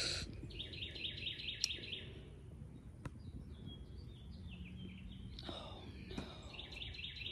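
Small bird chirping: quick runs of high, evenly repeated chirps, each lasting about a second and a half, twice, with softer scattered calls between.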